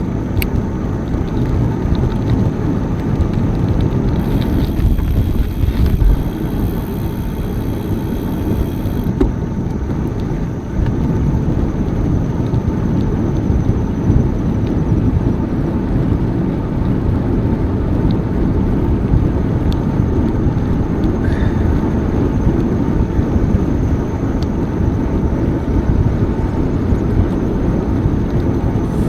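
Wind buffeting the microphone of a camera riding along on a moving bicycle: a steady, loud low rumble.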